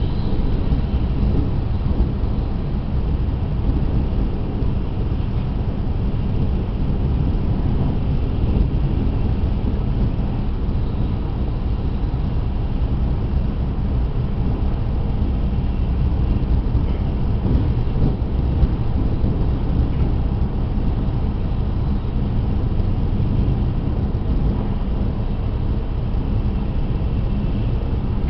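Tohoku Shinkansen train running at speed, heard from inside the passenger cabin: a steady, even low rumble of wheels and running noise with no breaks or distinct events.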